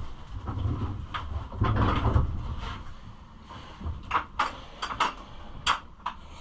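Handling noises as a pit bike on a wheeled stand is turned around: a low rumble of rolling and shifting for the first couple of seconds, then a string of sharp clicks and knocks about four seconds in.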